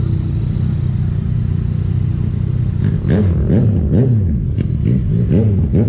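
Motorcycle engine idling, then revved in a quick series of six or so throttle blips, each rising and falling in pitch, starting about halfway through.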